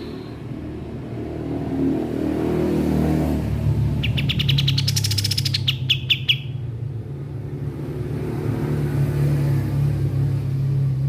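Kapas tembak bird singing one rapid, dry trill of quick repeated notes lasting about two and a half seconds, starting about four seconds in and ending on a few separate notes. A steady low hum runs underneath.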